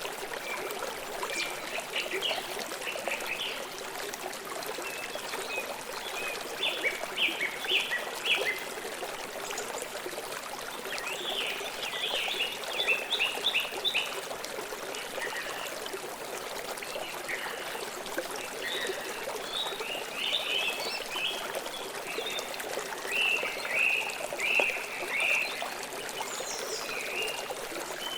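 River water flowing steadily, with birds chirping in short clusters of quick notes several times across the stretch.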